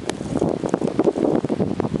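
Blizzard wind gusting hard over the microphone, a dense buffeting rush with scattered sharp ticks.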